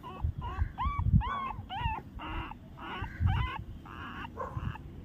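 A litter of puppies whimpering and squeaking, several at once, in short high cries that rise and fall in pitch, with a few low thumps among them.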